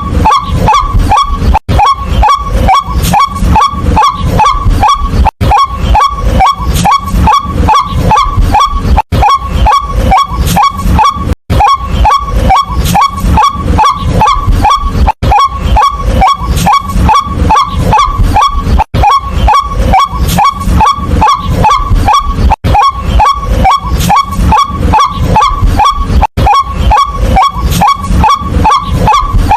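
White-breasted waterhen calling: a loud, rapid run of short, honk-like notes repeated without let-up, with a brief break every three to four seconds.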